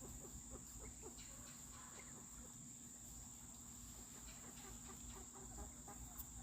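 Faint, soft short calls from quail feeding on scattered corn and seed, over a steady high-pitched insect drone.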